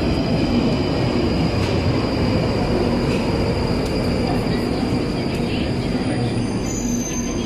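Train running on rails: a loud, steady rumble with a thin high whine over it, and higher wheel squeals coming in near the end.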